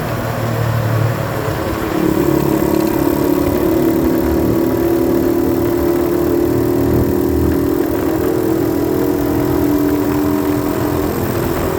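90cc dirt bike engine running at low revs, then revving up about a second and a half in and holding steady higher revs, dropping back to low revs near the end.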